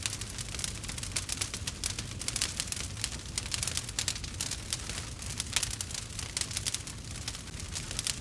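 Wood fire crackling in a fireplace: many quick, irregular pops and snaps over a low, steady rumble.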